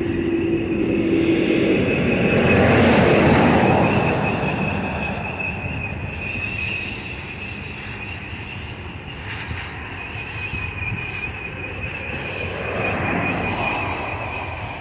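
Freight train of autorack cars rolling past, steady wheel-and-rail rumble with a thin, high, steady wheel squeal throughout, loudest about three seconds in. The locomotive is hardly heard: the train is coasting.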